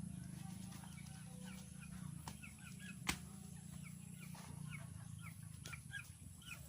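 Chickens calling with many short, high peeping calls scattered throughout, over a low steady hum, with one sharp click about three seconds in.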